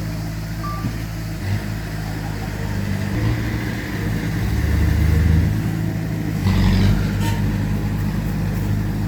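Heavy diesel engines of a bulldozer and dump truck running, their pitch rising and falling as they work. A single short beep comes under a second in, and a brief hissing burst about six and a half seconds in.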